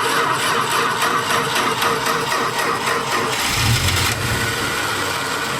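A 1962 Plymouth Valiant's slant-six engine running steadily and loudly. A deeper rumble swells briefly about three and a half seconds in.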